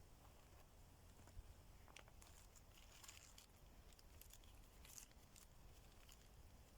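Near silence, with a few faint rustles and small clicks as kindling is handled.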